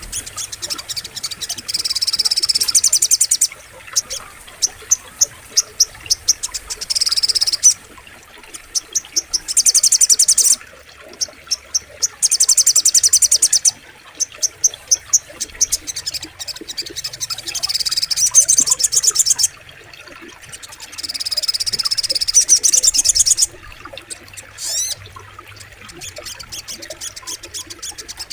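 Sogok ontong bird singing: bursts of very rapid, high-pitched trilling, each a second or two long, repeated with short pauses, over a faint background of running water.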